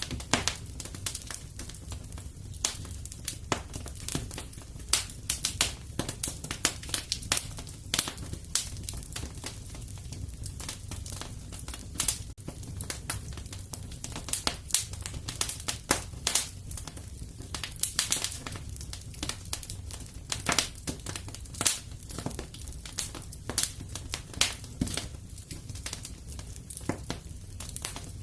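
Wood fire crackling in a fireplace: a dense, irregular run of sharp crackles and pops over a steady low rumble.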